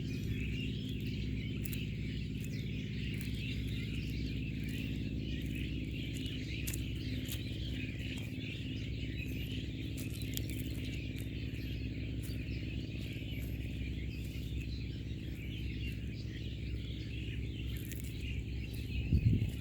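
Many birds chirping and twittering at once, a dense continuous chorus, over a steady low hum. A louder low thump or rumble comes right at the end.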